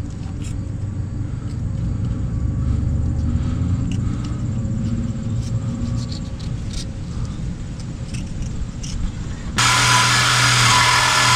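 A low steady rumble with a few faint scrapes. Near the end a drill fitted with a wire wheel starts, a steady hum under a loud, harsh scrubbing hiss, as it strips old RTV gasket sealant off the rear differential housing face.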